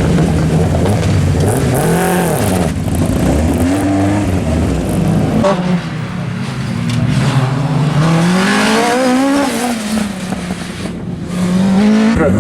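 Rear-wheel-drive rally car engine being driven hard. The engine note climbs and drops again and again as the driver accelerates, changes gear and lifts.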